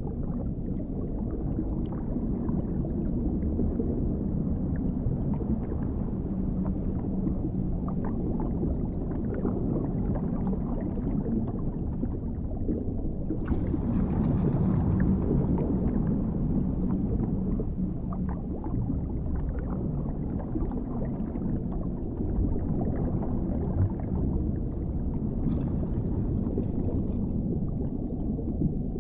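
Underwater ambience: a steady, low, muffled rumble with faint gurgles and scattered clicks. It grows brighter and a little louder for a couple of seconds about 13 seconds in, and again briefly near the end.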